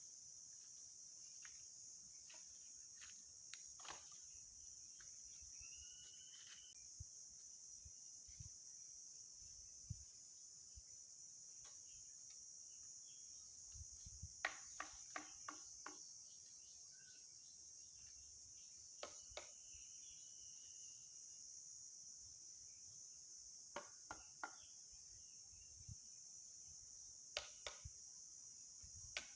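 A steady high insect chorus of crickets trilling, faint, with scattered sharp clicks and snaps, the busiest run about halfway through. Two brief chirps come through, one early and one about two-thirds in.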